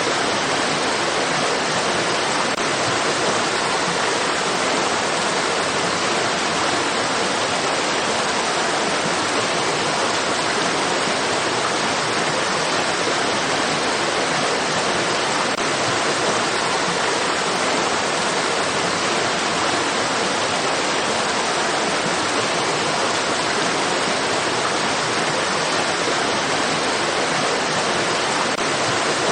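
Running water of a stream, a steady, unbroken rush with no distinct splashes or changes.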